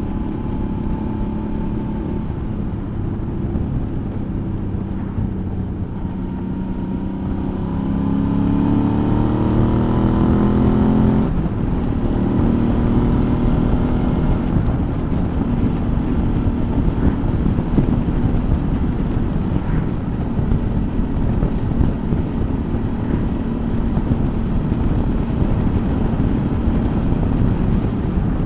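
Suzuki V-Strom's V-twin engine under way, with wind on the microphone. The engine note climbs steadily for about five seconds as the bike accelerates, drops suddenly at an upshift about eleven seconds in, then holds steady at cruising speed.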